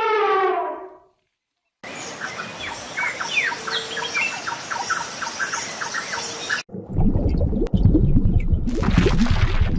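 A drawn-out, slightly falling honk-like bird call fades out about a second in. After a short silence, many small birds chirp over a steady hiss. Near the end of this, the sound cuts to loud, low rumbling noise with scattered clicks.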